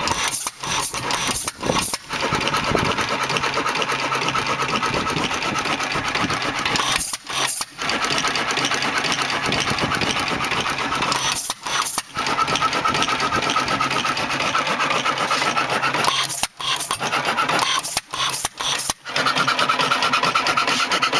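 Reeves Pulley Co. 4 hp single-cylinder hit-and-miss engine running with a steady, fast mechanical clatter, broken by several brief drops in sound.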